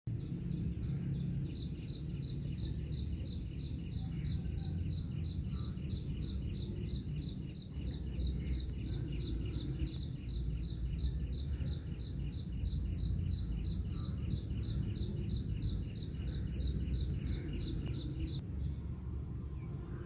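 A bird repeats one short, high call about three times a second, very evenly, until it stops near the end. Under it runs a steady low rumble.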